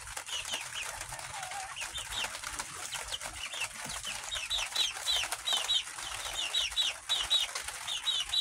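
Young chickens peeping: short, high-pitched falling peeps, scattered at first and then coming steadily in quick runs of two or three from about halfway through.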